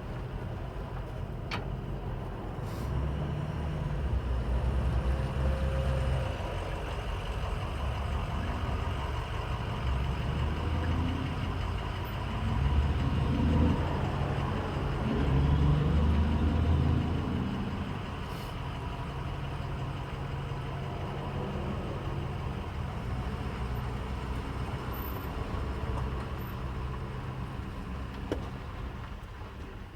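Car engine idling with a steady low rumble that swells louder a few times, while the radiator is topped up with water after overheating.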